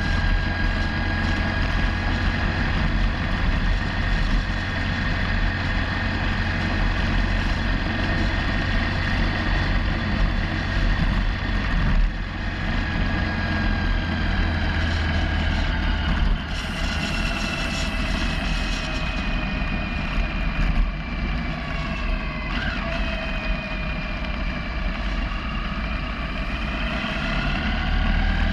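Motorcycle engine running while riding, under a steady low wind rumble; its pitch falls slowly past the middle as it slows, then rises again near the end as it picks up speed.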